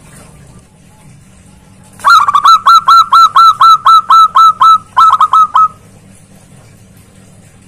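Zebra dove (perkutut) calling loudly: a rapid run of about twenty short upswept notes, roughly five a second, with a brief break near the end. It starts about two seconds in and stops about two seconds before the end.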